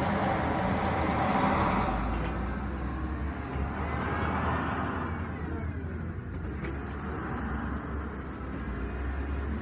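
Caterpillar 938M wheel loader's diesel engine running: a steady low hum with mechanical noise that swells over the first couple of seconds and then eases slightly.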